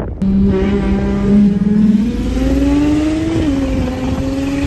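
Car engine accelerating. Its pitch holds, then climbs for about two seconds and drops suddenly at an upshift about three and a half seconds in, then runs steady again.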